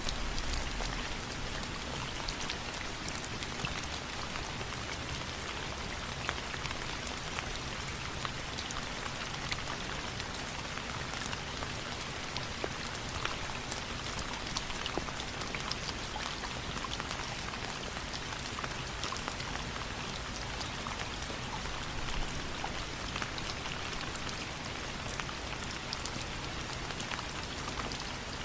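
Steady rain falling, a continuous even hiss dotted with many small sharp ticks.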